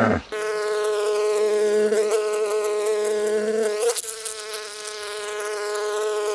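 Honeybees buzzing at the entrance of a wooden hive: a steady, high-pitched drone. About four seconds in, the pitch swoops briefly and the buzz drops quieter, then builds again.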